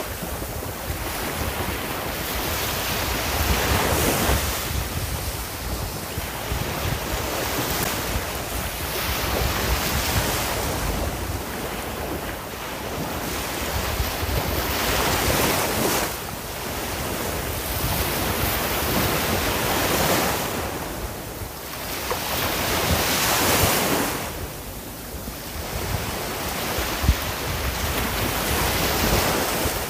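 Ocean waves breaking and washing on the shore, the surf swelling and falling back every few seconds, with wind noise under it.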